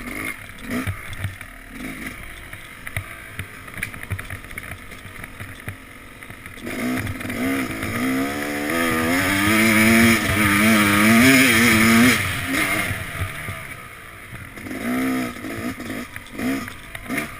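Yamaha YZ250X two-stroke dirt bike engine being ridden: short throttle blips at first, then about seven seconds in a long, loud run held high with its pitch wavering up and down for about five seconds before dropping back, and one more short rev near the end.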